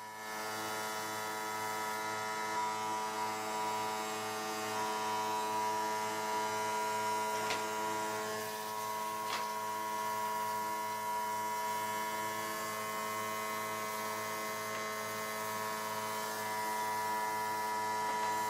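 Electric power tool motor running steadily with an even hum, with two faint ticks near the middle.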